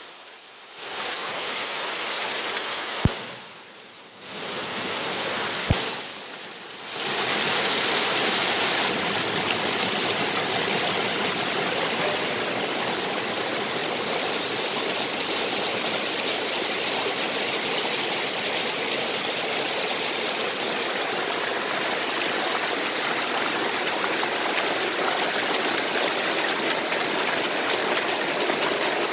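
Waterfall and stream water rushing steadily. In the first seconds the sound drops away briefly three times, with a sharp click about 3 s in and again about 6 s in.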